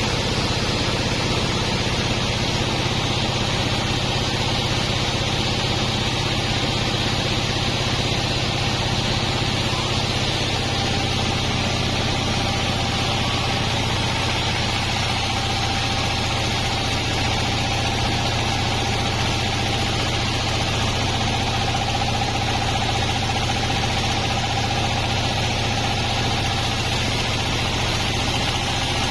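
Sawmill band saw and its drive running: a steady machine hum with a faint high tone, unchanging throughout.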